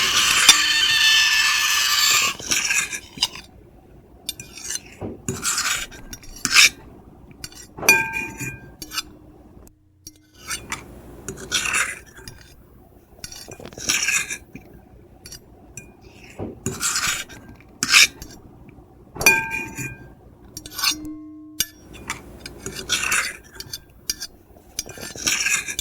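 Metal fork and knife scraping on a plate: one long continuous scrape for the first two seconds, then short, separate scrapes every second or two. Some strokes bring a ringing clink from the plate, near eight seconds in and again near nineteen.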